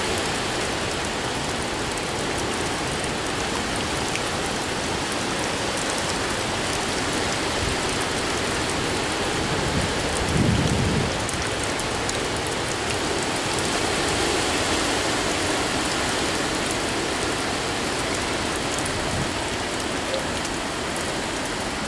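Heavy hurricane rain and wind, a steady dense hiss of rain, with a brief low rumble about halfway through.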